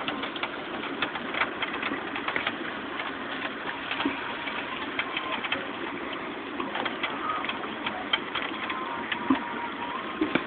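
Steady rain falling, a continuous hiss full of sharp taps and drips from drops hitting nearby surfaces.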